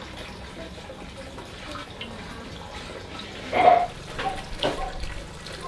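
Kitchen water sounds, running and splashing, over a steady low background. About three and a half seconds in there is a loud clank, followed by several short knocks of kitchenware.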